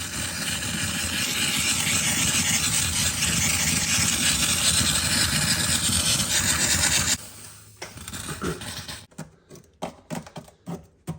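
Handheld steamer blowing a steady hiss of steam onto a fridge's defrost thermostat to clean it, cutting off suddenly about seven seconds in. Then a few short scraping and rubbing sounds.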